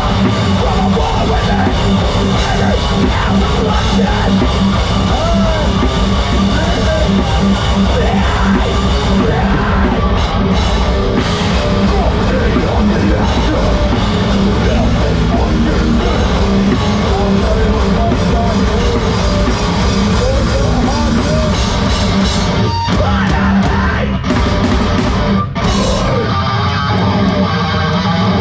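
A heavy band playing live and loud: distorted guitars, bass and a drum kit, with shouted vocals.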